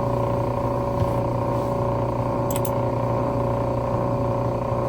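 Electric motor of a key duplicating machine running with a steady hum, with two faint ticks about two and a half seconds in.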